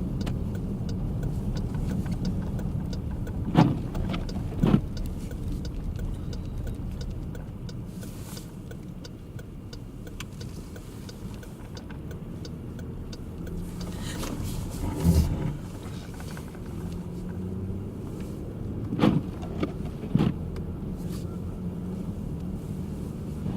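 Interior noise of a moving car: a steady low road and engine rumble, broken by a few short, sharp knocks, two of them about a second apart near the start and two more near the end.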